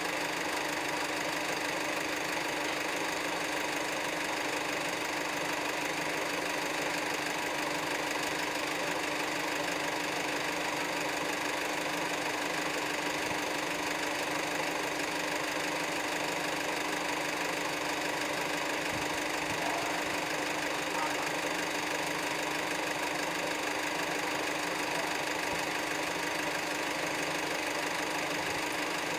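A steady, engine-like hum with a constant hiss, unchanging throughout.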